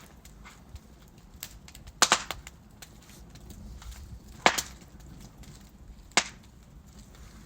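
Log fire crackling in a fireplace: a low steady rumble with many small ticks, and a few loud sharp pops, two close together about two seconds in, then one near the middle and one near the end.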